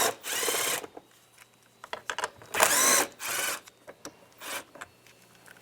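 Cordless drill/driver with a 7mm socket backing out small door-panel screws: two short bursts of the motor, each under a second, its pitch rising and falling, with small clicks between them.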